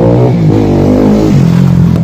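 KTM RC 390's single-cylinder engine running loud through its exhaust with the dB killer removed, its pitch rising and falling back twice before holding steady.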